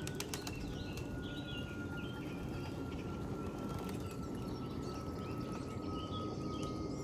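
Small birds chirping repeatedly outdoors, over a low steady rumble, with a faint thin whine slowly dropping in pitch across the whole stretch.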